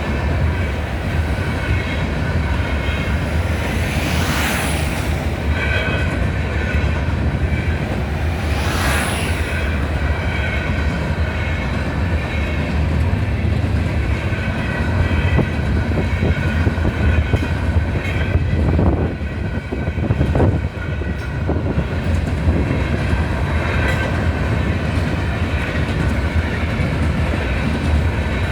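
Train rolling steadily past a railroad grade crossing, its cars giving a continuous low rumble and rattle. Brief high-pitched wheel squeals come about four and again about nine seconds in.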